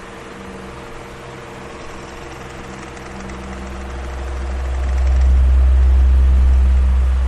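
Electric fan running with a steady motor hum and rushing air; a deep low rumble of airflow swells to its loudest about five seconds in and then starts to ease.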